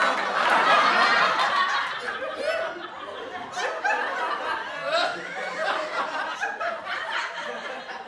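Several people laughing together, loudest in the first couple of seconds and easing into scattered chuckles.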